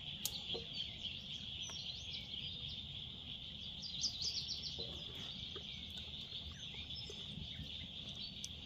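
Steady, unbroken high insect chorus with a few bird chirps over it, a quick run of chirps about four seconds in.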